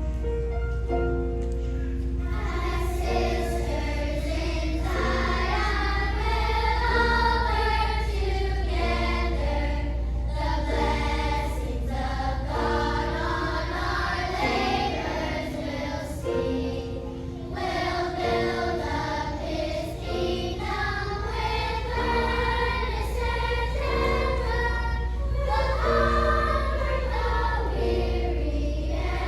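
Children's choir singing a song over an accompaniment of short, repeated chords, with a steady low hum underneath.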